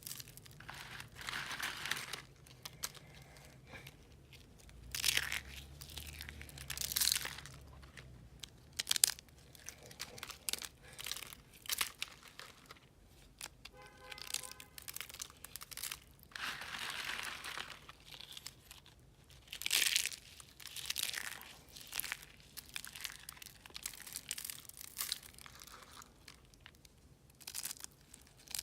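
Dry, crumbly recycled blue soap being crushed, giving irregular crisp crunches and crackles with short pauses between them.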